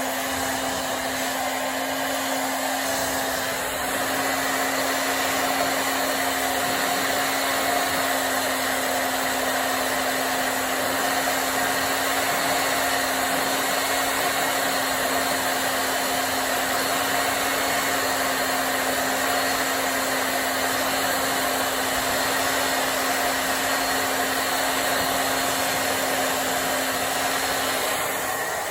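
Hand-held hair dryer running steadily, a continuous rush of blowing air with a steady motor hum and a thin high whine.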